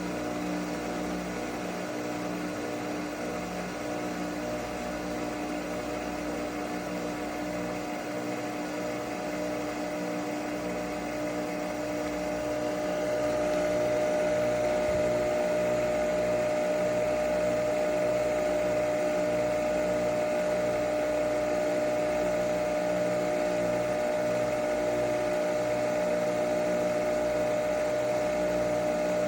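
Nespresso Vertuo Pop+ coffee machine brewing, its capsule-spinning motor and pump running with a steady hum over an even, pulsing throb. About 13 seconds in the hum moves to a higher pitch and gets louder.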